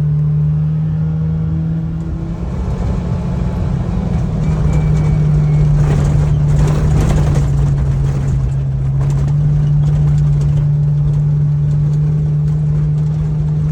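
Engine of a six-seat Kawasaki side-by-side running steadily under way, heard from inside its enclosed cab, with a constant low hum and tyre and trail noise. Its pitch dips slightly about two seconds in, and the trail noise gets louder and rougher around six to eight seconds in.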